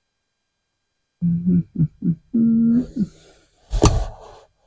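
A man's voice making a few short hummed notes, then a sharp knock near the end.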